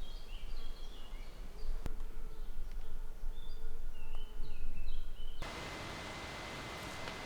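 A small bird singing short chirping phrases of quick stepping notes over a low rumble. About five seconds in it cuts off abruptly to a steady, quieter hiss with a faint thin high tone.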